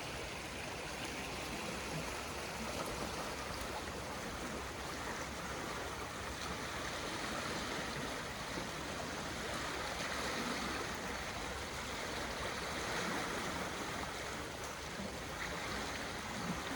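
Swollen river rushing steadily, the water running high and full after heavy prolonged rain.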